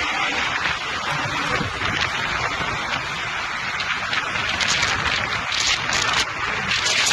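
Strong tornado wind rushing over the microphone, a loud steady noise that surges briefly several times.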